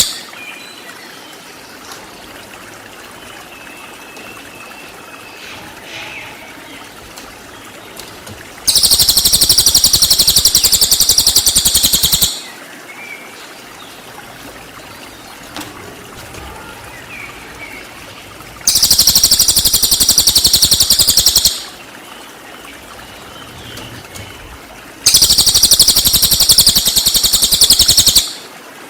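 Cililin bird giving three bursts of its 'tembakan' call, each a loud, very fast, high-pitched trill lasting about three seconds: one about a third of the way in, one about two-thirds in, and one near the end. Between the bursts only faint, scattered chirps are heard.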